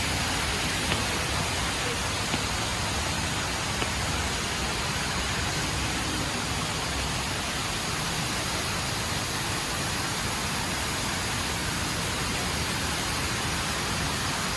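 Steady rushing of the HSBC Rain Vortex, a tall indoor waterfall, its water falling into the pool below, with a murmur of voices mixed in.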